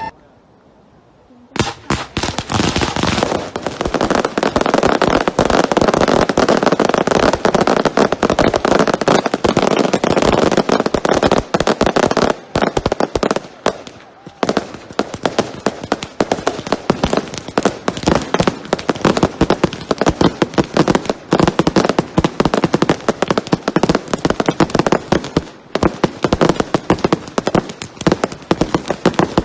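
Fireworks going off in a dense, rapid barrage of cracks and bangs. It starts about a second and a half in and keeps up almost without a break, with a couple of brief lulls.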